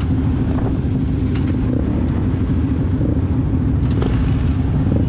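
Motorcycle on the move: steady low engine rumble with wind and road noise and a constant drone, broken only by a few faint clicks.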